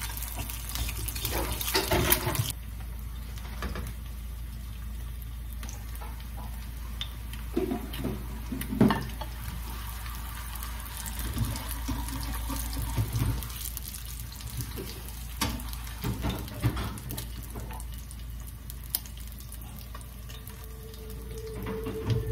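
Egg and corn tortilla frying in oil in a nonstick skillet: a steady sizzle, with occasional knocks and scrapes of a plastic spatula against the pan.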